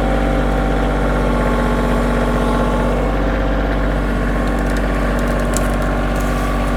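Kioti tractor's diesel engine running at a steady, even speed.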